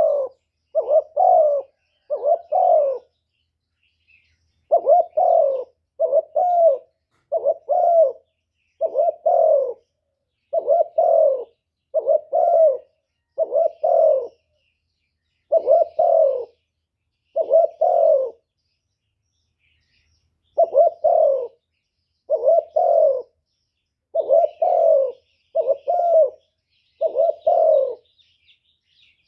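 Spotted dove cooing, a long steady run of short two- or three-note coo phrases about every one and a half to two seconds, with two brief pauses; this is a decoy dove's call, used to draw in wild doves. Faint high chirps of small birds sit behind it.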